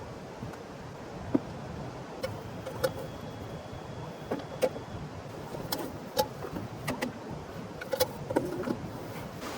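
Steady hiss of heavy rain, with an irregular scatter of sharp clicks and knocks from about a second in.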